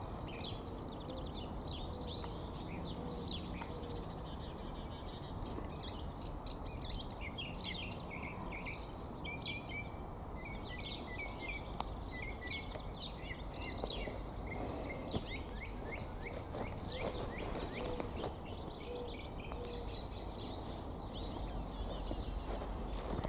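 Songbirds chirping and calling in quick, overlapping runs of short notes over a steady low background rumble.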